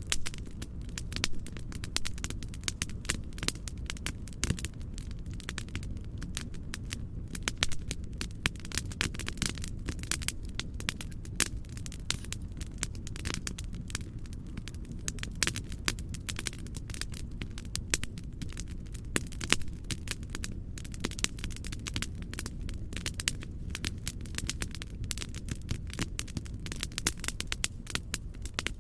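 Fireplace fire crackling: a steady stream of sharp pops and snaps over a low, steady rumble of noise.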